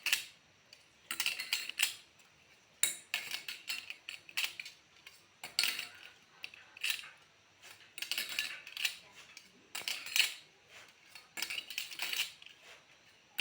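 Metal parts of a milk cream separator clinking and rattling as its stacked discs are handled and fitted together. The clinks come in short clusters about every second or so.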